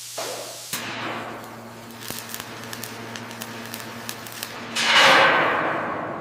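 A steady machine hum with scattered sharp clicks, and a loud hissing whoosh that swells about five seconds in and then fades away.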